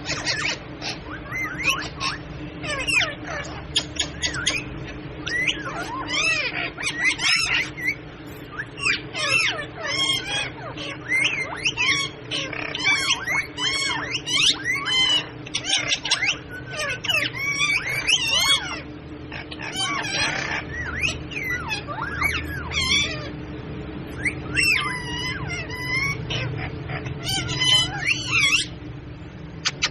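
Pet parrots chattering and squawking, a rapid, near-continuous run of chirps and screeches.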